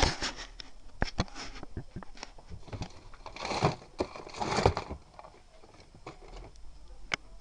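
Handling noise of toys being moved about: several sharp clicks and knocks, and two brief noisy swells in the middle.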